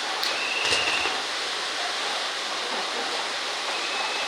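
Handmade gunpowder firework set piece hissing steadily as it sprays sparks, with a few sharp cracks and a short high whistle in the first second.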